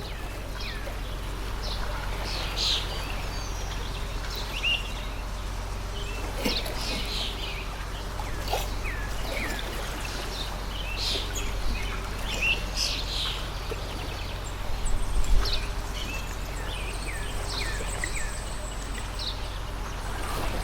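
Small birds chirping and calling in quick, scattered bursts over the steady rush of a flowing stream, with one brief low bump about fifteen seconds in.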